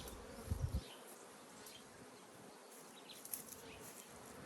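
Honeybees buzzing faintly around an open hive, with a few low bumps about half a second in.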